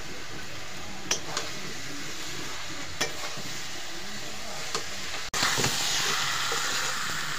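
Chicken pieces sizzling as they fry in a metal wok, with a few sharp clicks of metal against the pan. Just after five seconds in, the sizzle drops out for an instant and comes back louder and hissier.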